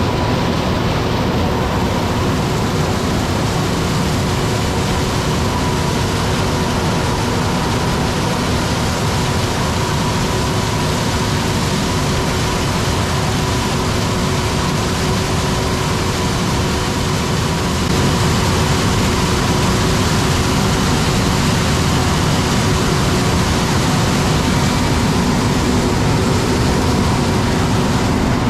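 Large diesel harvest machinery, a combine harvester and grain-cart tractor, running steadily while picking corn. A constant engine hum carries a faint steady whine, and it gets louder about eighteen seconds in.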